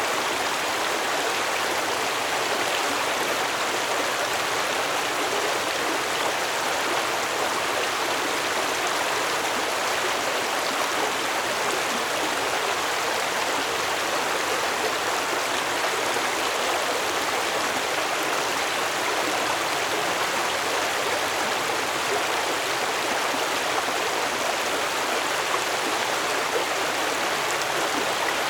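Stream water flowing steadily over rocks, a continuous even rush and babble.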